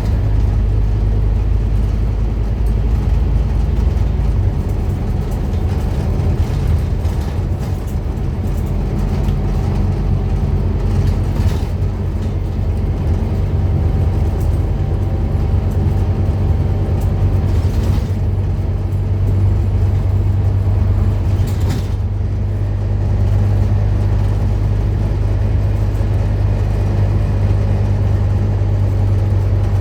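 Scania N230UD Omnicity double-decker bus running steadily, a deep engine drone with small rises and falls in pitch. A few short knocks come about 11, 18 and 22 seconds in.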